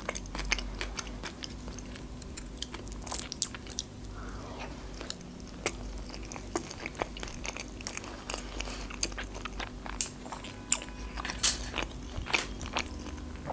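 A person chewing a mouthful of food with the mouth closed: soft, irregular clicks and smacks.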